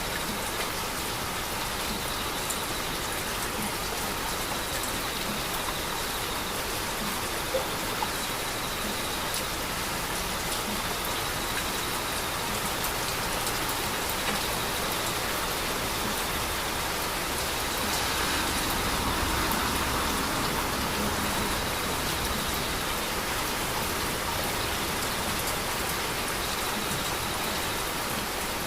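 Heavy rain falling steadily, a dense hiss with scattered individual drop ticks, growing slightly heavier for a few seconds about two-thirds of the way through.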